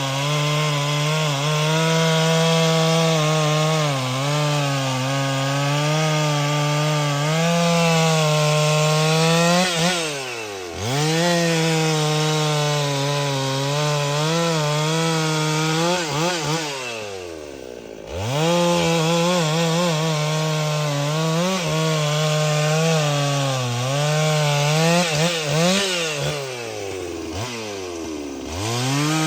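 Chainsaw running at high revs, cutting through wood. Three times the engine drops sharply in pitch and then climbs back up to speed.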